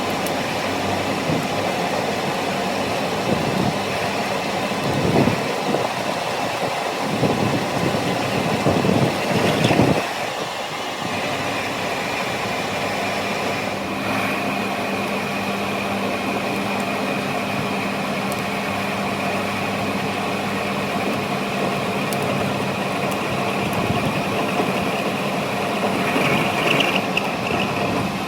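Workshop machinery running: irregular noisy surges for the first ten seconds, then a steady run with a constant low hum and a high whine.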